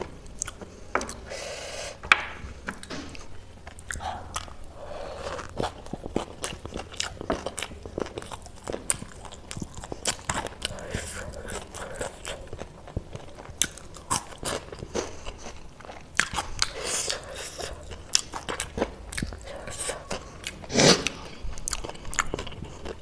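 Close-miked chewing and crunching of mouthfuls of spicy chatpatey made with crushed Wai Wai instant noodles, a steady run of small crunches and mouth clicks.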